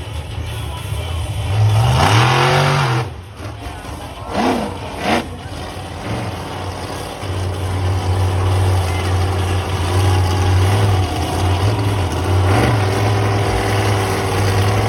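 Bounty Hunter monster truck's engine revving hard about two seconds in, then two quick throttle blips, then running on at a steady high note.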